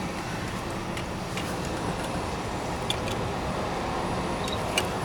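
Car engine idling steadily while stopped, with a few faint clicks.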